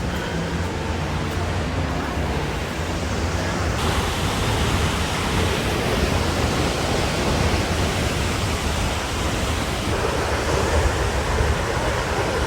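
Steady roar of falling water from the 120-foot High Falls on the Pigeon River. It turns abruptly fuller and brighter about four seconds in.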